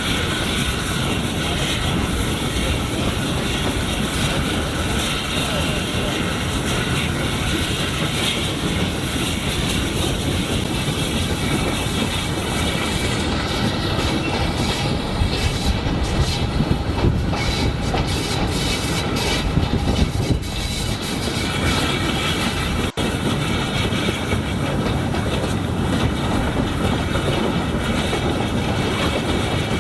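Steam train running along the track, a steady rumble with wheels clattering over the rail joints. Thin, steady high tones join in about halfway through.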